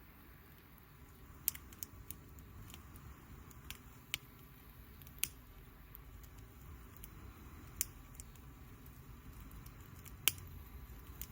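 Wood campfire crackling: a low steady rush of the flames with scattered sharp pops, irregular and a second or more apart, the loudest about ten seconds in.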